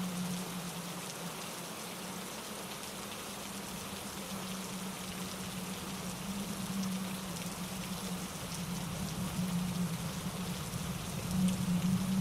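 Steady rain with scattered drop ticks, mixed with a mountain stream tumbling over granite rocks, forming an even hiss. It grows louder near the end.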